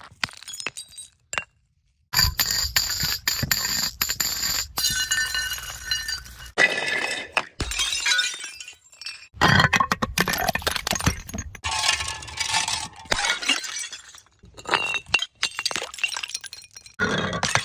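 A string of short cut-together clips of glass bottles knocking, clinking and shattering. The impacts are sharp, some leave a ringing glass tone, and there is a moment of dead silence at an edit just before two seconds in.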